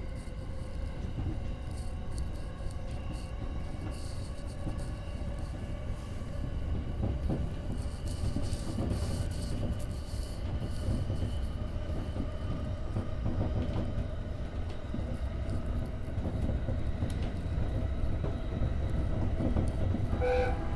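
Electric commuter train running at speed, heard from inside the front car: a steady rumble of wheels on rail with a steady motor whine, growing gradually louder. A short tone sounds near the end.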